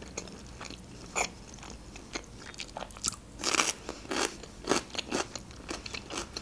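Close-up crunching and chewing of crisp raw cucumber: a string of short, sharp crunches at irregular intervals, the loudest ones in the middle.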